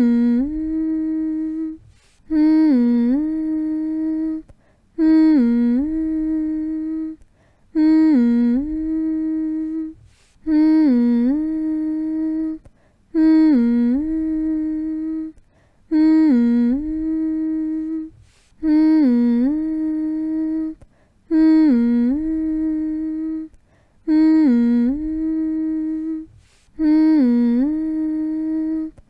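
A person humming one steady note over and over, each hum about two seconds long and starting with a short dip in pitch, with a brief pause for breath between hums, repeating about every two and a half seconds. The humming is meant to lull a baby to sleep.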